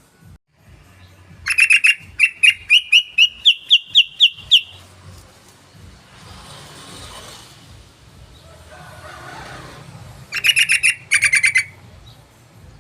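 Yellow-vented bulbul song, a lure call: a loud run of about ten sharp chattering notes climbing slightly in pitch, then a second short, fast burst of notes near the end.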